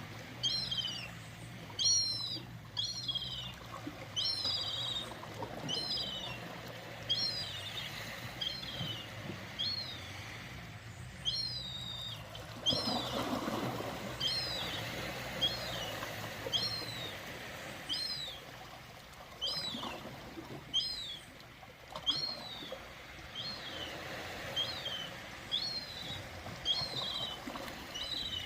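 A bird calling over and over, a short high chirp falling in pitch about once a second, over a steady wash of ocean water, with one louder surge of water about halfway through.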